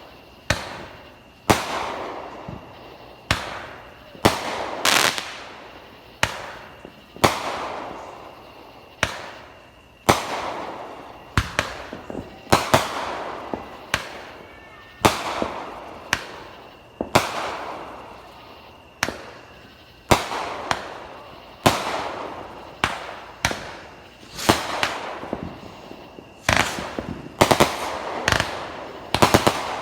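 Fireworks going off in a steady series: a sharp bang every second or two, some in quick pairs, each trailing off over about a second.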